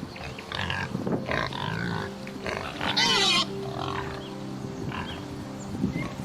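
Domestic pig grunting and squealing, a string of short calls with one loud, shrill squeal about three seconds in.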